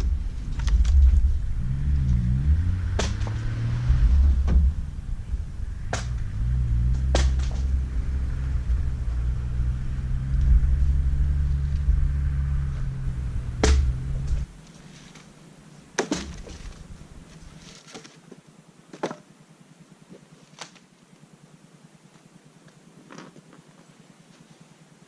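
4WD engine running under load with a low rumble and sharp knocks and rattles, its pitch rising and falling. About halfway through the engine sound cuts off suddenly, leaving scattered clicks and taps.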